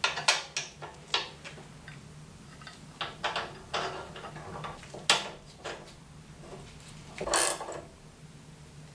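Irregular clicks and knocks of small mechanical parts and tools being handled in a workshop, with a longer scraping rattle about seven seconds in.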